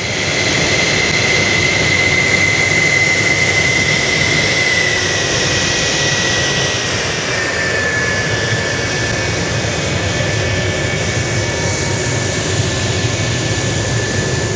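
Aircraft turbine engine running loud, with a steady high whine over a broad rush that steps down slightly in pitch about halfway through.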